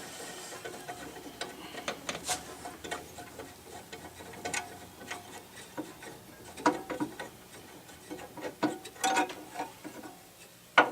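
Irregular small clicks, taps and clinks of jukebox mechanism parts being worked loose and pulled out by hand, with a few sharper knocks about two, seven and nine seconds in.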